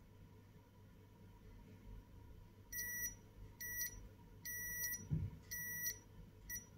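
Multimeter continuity buzzer beeping five times, short beeps of uneven length about a second apart, as the probes are touched across capacitors on an iPhone XR logic board. A beep marks continuity, the sign of a shorted capacitor. A soft low thud comes midway.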